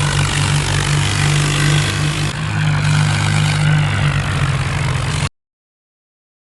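Tractor diesel engine running steadily with a deep hum and a slight clatter, then cutting off abruptly to total silence about five seconds in.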